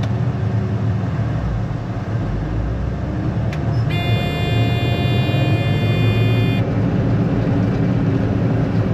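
Combine engine running with a steady low drone heard from the cab. About three and a half seconds in there is a click, then a steady electronic warning tone sounds for about two and a half seconds and stops.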